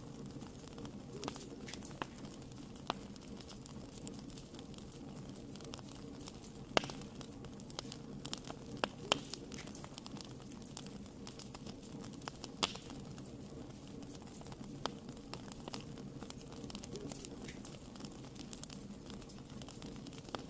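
Wood fire burning in a fireplace: a steady low hiss with irregular sharp crackles and pops, a few louder snaps scattered through.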